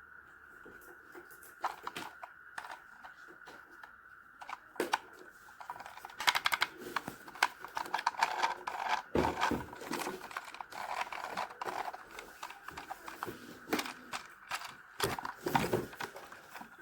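Hands unpacking and handling a toy RC monster truck: packaging crinkling and tearing with many small plastic clicks and taps, busiest from about six seconds in, over a faint steady high hum.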